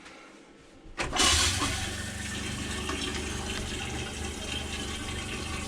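Water suddenly starts rushing through a fixture in the camper's plumbing about a second in, then runs steadily with a low hum under it, flushing sanitizing solution out of the water lines.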